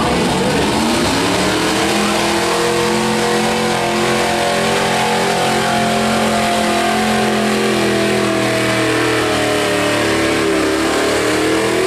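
Modified gas pickup-truck engine at full throttle pulling a weighted sled. The revs climb over the first couple of seconds, hold high and steady, then sag a little and pick back up near the end.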